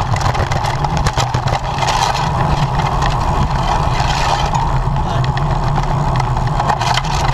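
Steady rushing wind and road noise from a bicycle moving at race speed, with scattered light clicks and rattles from the bike.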